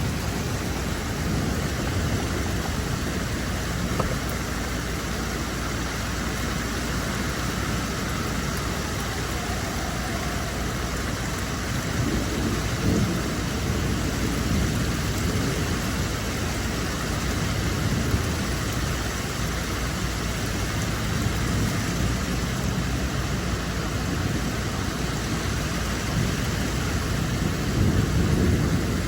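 Rain falling steadily, with low rumbles swelling and fading a few times, around the middle and again near the end.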